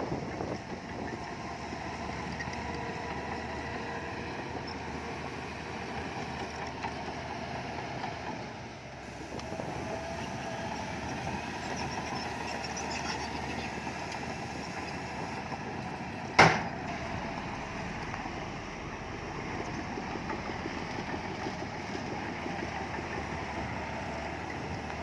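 Heavy earthmoving diesel engine running steadily, with one sharp bang about two-thirds of the way through.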